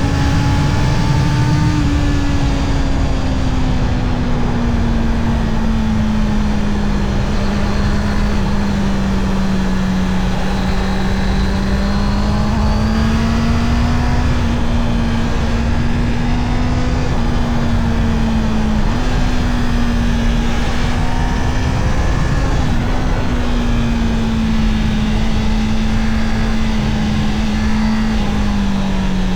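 Honda CB650R inline-four motorcycle engine running under way at steady, fairly high revs, its pitch drifting gently up and down with the throttle. There is a brief break in the pitch about two-thirds through, and it settles lower near the end.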